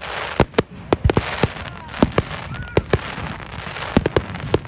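Fireworks going off: a rapid, irregular string of sharp bangs, a dozen or more, over a continuous hissing crackle.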